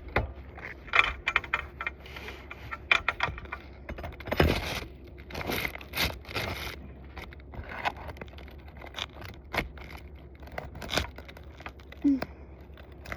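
Irregular scraping, clicking and tearing as a tool is worked under asphalt roof shingles to free a stubborn nail that is still holding the shingle.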